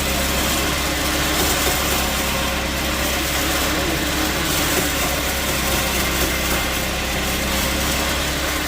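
Sawmill machinery running steadily: an even engine-like hum with constant noise over it, no breaks or separate impacts.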